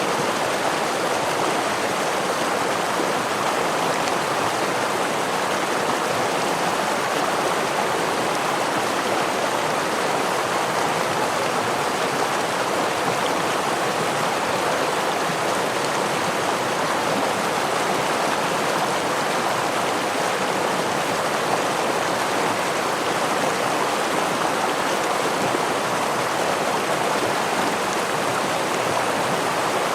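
Stream water rushing and splashing over a small waterfall, a steady even rush without any changes.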